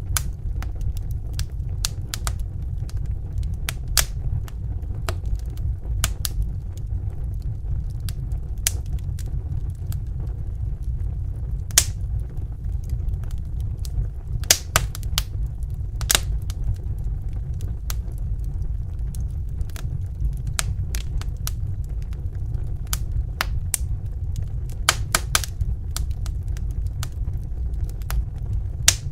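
Wood fire in a fireplace crackling, with a steady low rumble of burning and irregular sharp snaps and pops, a few louder ones scattered through.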